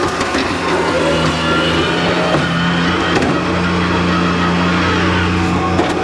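Skid steer engine running steadily at a constant pitch.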